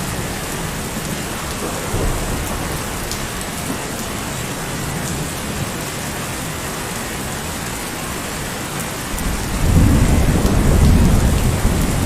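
Steady heavy rain falling on hard surfaces, with a low rumble of thunder that starts about nine and a half seconds in.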